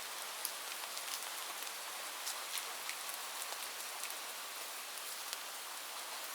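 Steady rain falling on a roof, an even hiss with many individual drops ticking through it.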